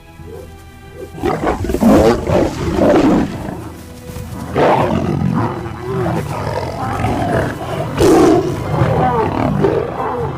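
Lion roaring and growling in three loud bouts: about a second in, around the middle, and about eight seconds in. Dramatic music with sustained tones plays underneath.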